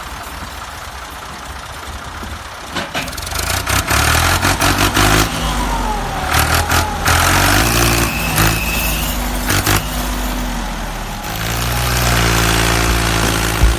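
A motor running and revving, its pitch rising and falling repeatedly, with scattered clicks and knocks.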